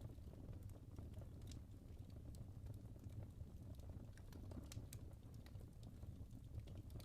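Log fire in a fireplace crackling softly: irregular small pops and snaps over a low, steady rumble of the flames.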